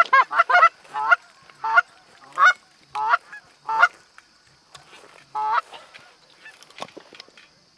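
Canada geese honking: a quick run of honks, then single honks spaced under a second apart, the last about five and a half seconds in, followed by a few faint clicks.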